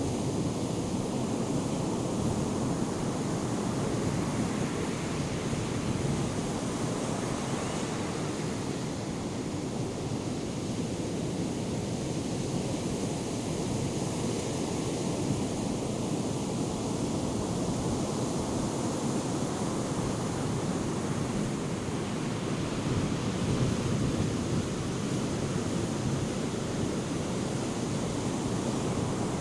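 Ocean surf from a hurricane swell breaking and washing ashore in a steady rumbling wash, with some wind noise on the microphone.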